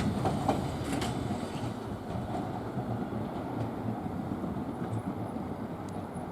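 A London Underground District Line S7 Stock train running past and moving away: a steady rolling rumble that slowly fades, with a couple of faint clicks in the first second.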